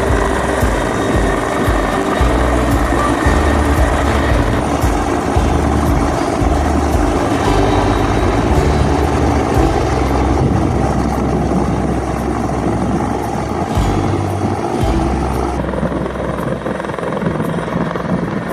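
Search and rescue helicopter running steadily, a dense wash of rotor and turbine noise with an uneven low pulsing.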